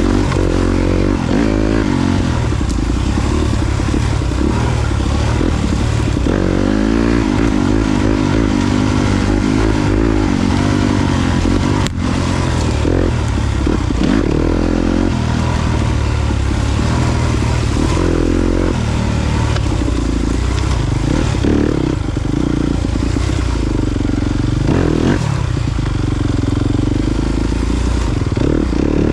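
Yamaha YZ250FX four-stroke single-cylinder dirt bike engine being ridden on a trail, its pitch rising and falling again and again as the throttle is opened and closed. A brief click sounds about twelve seconds in.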